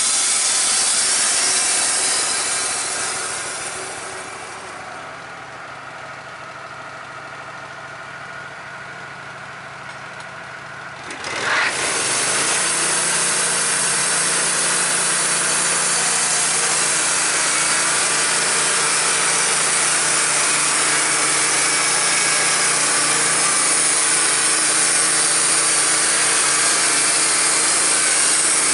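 Portable sawmill cutting an 8x8 timber into 2x boards: the engine runs hard with the blade in the wood, drops to a quieter idle for several seconds, then revs back up suddenly about eleven seconds in and cuts steadily again.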